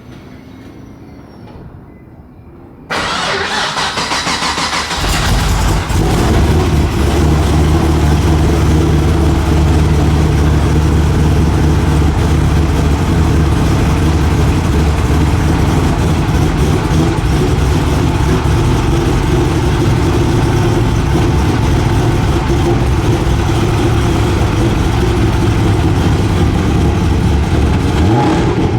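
A vehicle engine is cranked on the starter, catches about five seconds in, and then runs steadily at a rumbling idle.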